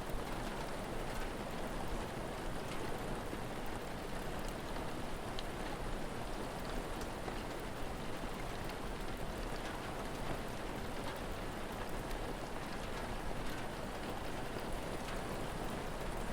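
Steady rain falling, with small scattered crackles and pops from a wood fire.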